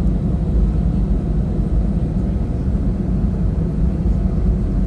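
Steady, low rumble of a jet airliner's engines and airflow heard from inside the passenger cabin.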